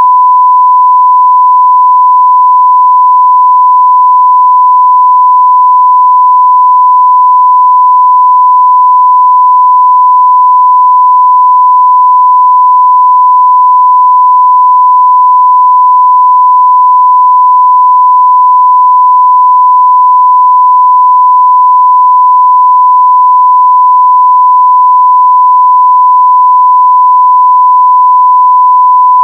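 A 1 kHz sine-wave audio test tone at full scale (0 dB), one pure steady pitch with no change.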